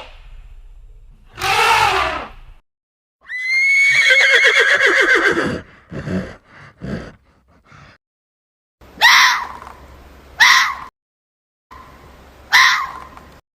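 Horse whinnying: one long call that starts high and falls away in a quavering tail, with several shorter calls before and after it, and three brief calls near the end.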